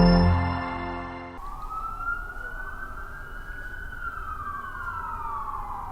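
Intro music fades out within the first second or so, then an emergency vehicle siren wails, its pitch rising slowly and falling again.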